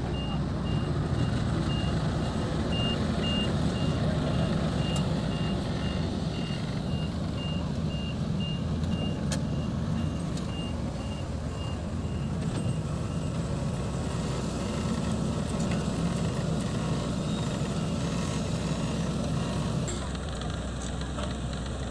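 Diesel engines of heavy road-paving machinery running steadily, with a vehicle's reversing alarm beeping about twice a second until roughly two-thirds of the way through.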